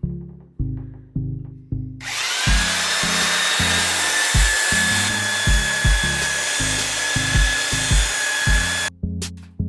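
An electric power tool spins up about two seconds in, runs steadily with a high whine over a hiss, and cuts off abruptly near the end. Background music with a steady beat plays throughout.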